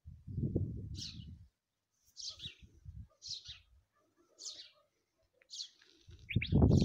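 A small bird chirping, single short high chirps repeated about once a second. A low rumbling noise comes in the first second and again, louder, near the end.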